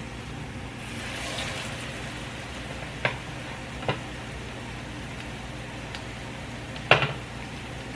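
Salmon croquettes frying in hot oil in a skillet, a steady sizzle. Three sharp clicks cut through it, the loudest about seven seconds in.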